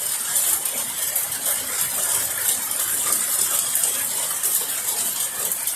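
Steady rain falling: an even hiss that holds without a break.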